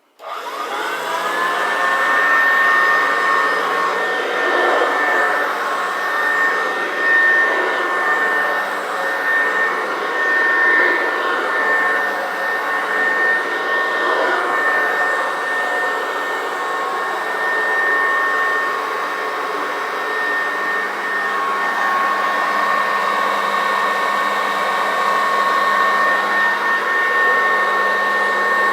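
Vintage Kirby Sanitronic 562 upright vacuum cleaner switched on. Its motor spins up with a rising whine over the first couple of seconds, then runs steadily with a high whine over the rush of the fan.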